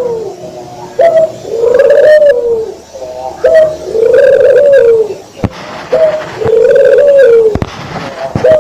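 A Barbary dove (burung puter) cooing three times in a row, each a short note followed by a longer drawn-out rounded coo, about every two and a half seconds. A few faint clicks fall between the calls.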